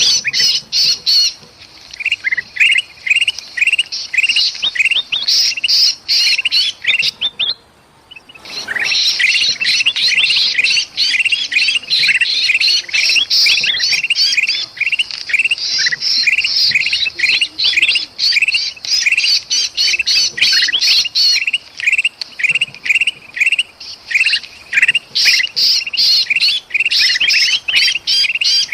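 Kutilang emas bulbuls chattering in a dense run of rapid, harsh, repeated calls, mixed with the distress calls of a trapped kutilang: an agitated alarm chorus. The calls break off briefly about eight seconds in.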